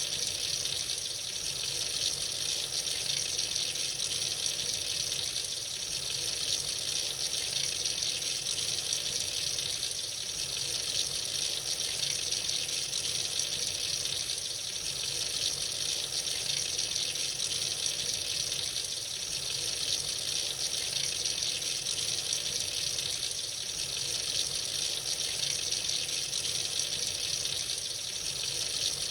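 Water running steadily from a tap into a sink, a continuous hissing splash with slight swells.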